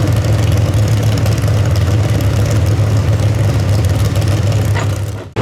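Pro stock mini truck engine running loud and steady at constant revs. The sound cuts off abruptly near the end.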